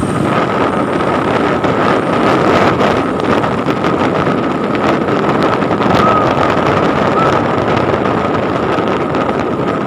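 A truck running at speed: steady engine and road noise with wind buffeting the microphone, and a faint high whine held throughout.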